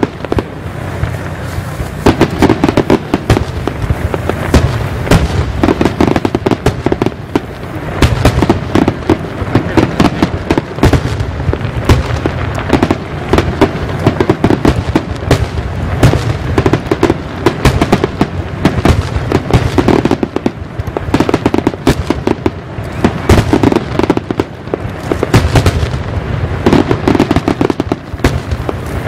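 Fireworks display barrage: many aerial shells bursting in rapid succession, a dense run of booms and crackles with no gaps, over a continuous low rumble.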